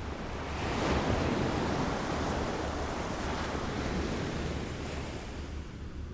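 Small waves lapping on a shore: a wash of water swells up about a second in and slowly dies away, over a steady low rumble.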